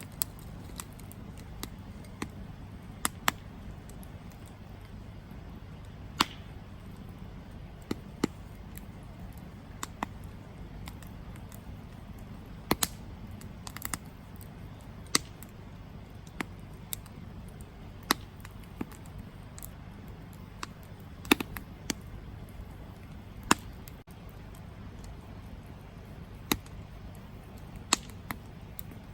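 Wood campfire crackling, with sharp pops at irregular intervals over a steady low rumble.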